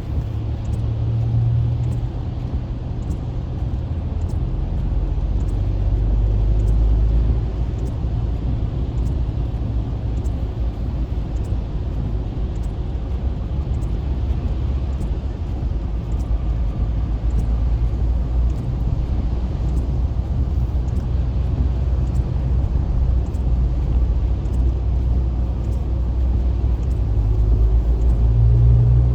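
Car interior noise in slow, congested traffic: a steady low engine and road rumble heard from inside the cabin.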